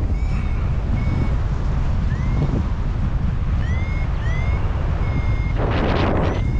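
Paragliding variometer giving short, high beeps, several gliding upward in pitch, the signal that the glider is climbing in lift. Heavy wind buffeting on the microphone runs underneath, with a louder gust of wind near the end.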